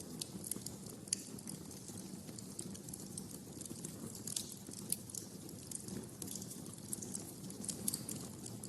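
Wood fire crackling in a fireplace: irregular sharp pops and snaps, several a second, over the steady low rumble of the burning flames.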